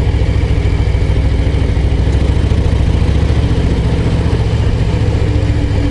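Harley-Davidson Low Rider ST's Milwaukee-Eight 117 V-twin pulling steadily at low revs, around 1600–1700 rpm on a climb, with a low, rapid, even pulsing exhaust note.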